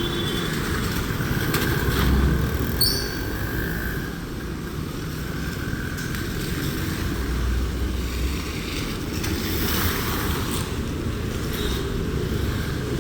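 Road traffic running by: a steady mix of car and motorbike engines and tyre noise, with a brief high chirp about three seconds in.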